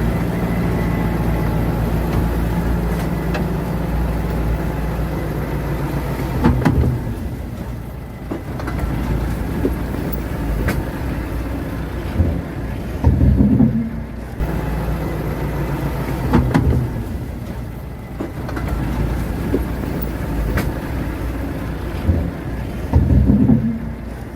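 Heavy diesel engine of a bulldozer running steadily under load, with several short, louder surges and clanks as it works.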